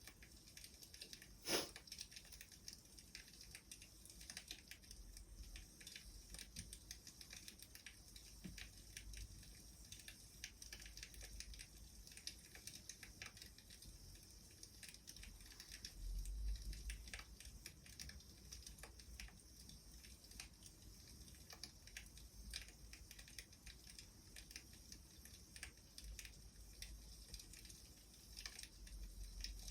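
Faint wood fire crackling: scattered small pops and ticks, with one sharper pop about a second and a half in.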